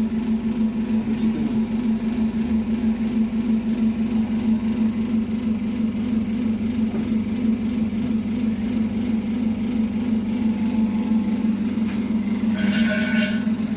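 A machine running with a steady low hum that holds one constant pitch, with a brief rattling noise about twelve and a half seconds in.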